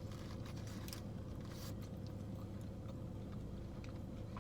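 A person chewing a bite of a pulled pork sandwich close to the microphone, with small scattered mouth clicks, over a steady low hum.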